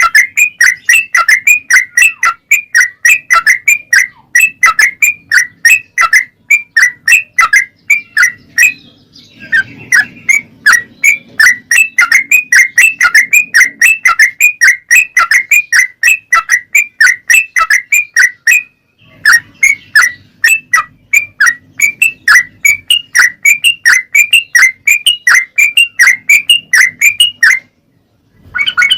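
Yellow-vented bulbul (trucukan) calling in a rapid, even run of sharp chirps, about four a second. It breaks off briefly twice and stops for a moment near the end before a louder burst of song starts.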